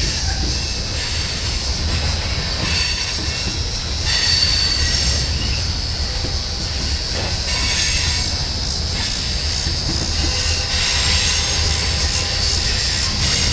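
Freight cars of a manifest train rolling across a railway overpass bridge: a steady low rumble under a continuous high-pitched wheel squeal that swells and fades every second or two.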